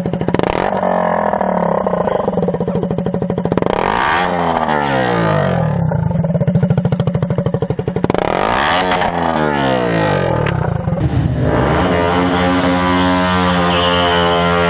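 KTM Duke 125's single-cylinder four-stroke engine running loud with no exhaust silencer, revved up and back down twice, then held at a steady note near the end.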